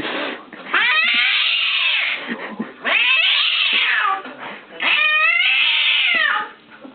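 A domestic cat yowling in three long, drawn-out calls that waver in pitch: the angry, defensive caterwaul of a cat threatened by a frightening sight.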